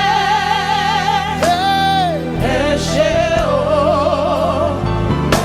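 Gospel worship song sung live: a voice holds long notes with vibrato, with a sliding phrase about a second and a half in, over a steady instrumental backing. It is a Nigerian thanksgiving song whose words mean 'thank you'.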